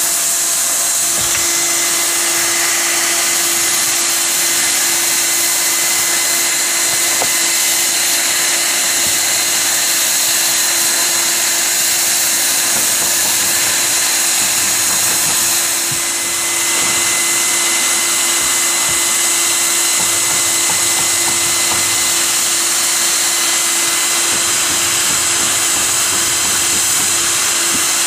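HERZ Belton automatic hot-air profile welder running: a steady blower hiss under a constant motor hum, with a brief dip in level about halfway through.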